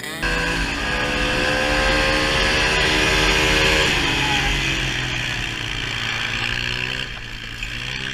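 Vehicle engine running hard at steady revs, its pitch easing down about four seconds in, then fading toward the end.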